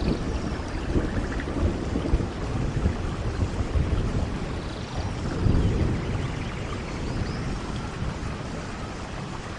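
Steady rainforest rain, with low rumbles of thunder that swell loudest about five and a half seconds in. Faint high chirps and trills sound above the rain.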